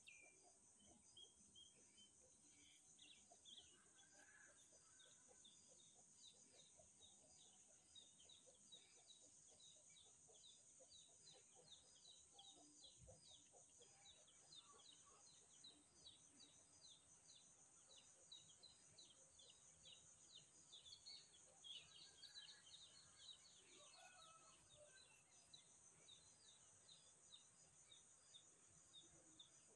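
Faint outdoor ambience: small birds chirping in quick, repeated high chirps that grow denser in the second half, over a steady high insect drone.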